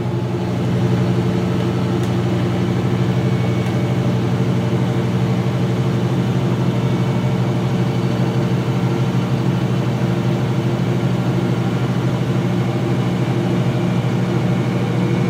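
2006 GE Profile top-loading washing machine spinning at speed in its wash-to-rinse spin: a steady motor and drum hum that swells slightly in the first second and then holds even, the machine shaking a bit much.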